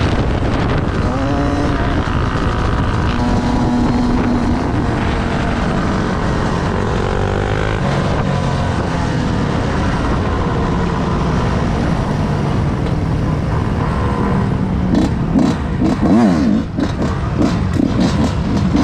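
Motorcycle engines running under way over a steady rush of wind and road noise, with engine pitch rising and falling. The engines rev up and down several times near the end.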